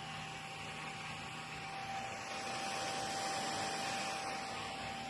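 Small DC cooling fan, wired as the test load on a power supply board, running with a steady whirring hiss, a low electrical hum and a thin steady whine; the sound swells slightly about two seconds in.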